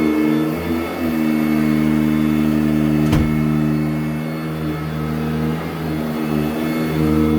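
Sanitaire SC899 commercial upright vacuum running steadily over carpet, its motor giving a constant hum. A single sharp click sounds about three seconds in.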